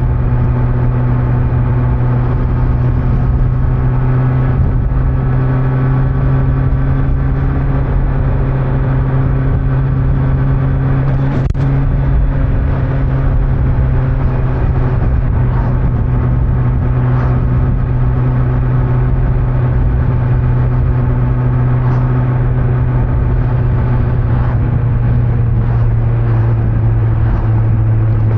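Kawasaki Z900 inline-four motorcycle engine with stock exhaust running at a steady cruise, over road and wind rumble. A single sharp click comes about eleven seconds in, and the engine note drops slightly near the end.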